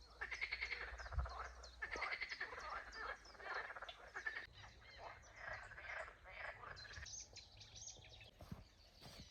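A chorus of frogs croaking, many overlapping trains of rapid rattling calls. They thin out about seven seconds in, leaving higher chirps.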